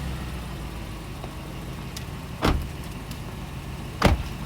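Car engine running steadily, with two sharp thumps about a second and a half apart, the second the louder.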